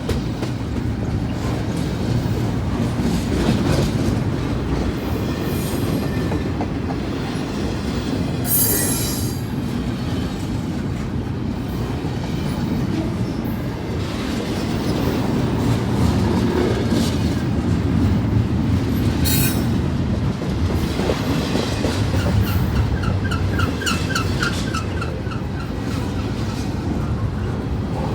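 Canadian National freight train's cars rolling past: a steady rumble of steel wheels on rail with clickety-clack over the joints. High wheel squeals cut in a few times, the longest near the end.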